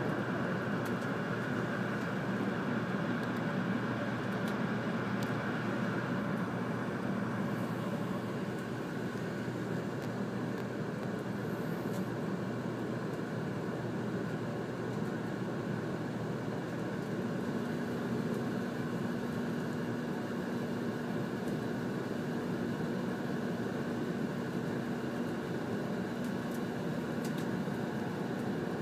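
Steady running noise of a Series 100 Shinkansen heard inside the passenger car at speed, plausibly while in a tunnel. A steady low hum joins about halfway through.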